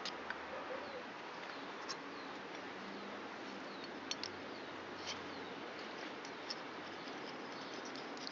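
A few faint, light clicks and taps of small engine parts being handled and fitted, over a steady low hiss.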